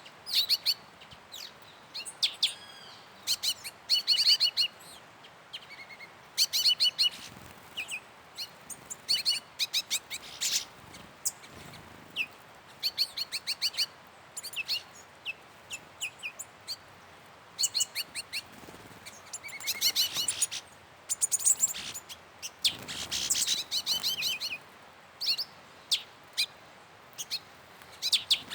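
Wild songbirds calling: bursts of quick, high chirps repeated every second or two, over faint background hiss.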